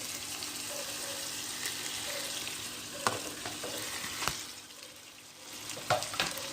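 Chicken and freshly added ground paste sizzling in hot oil in a pot, with a spoon stirring and knocking against the pot a few times. The sizzle quietens about two-thirds of the way through.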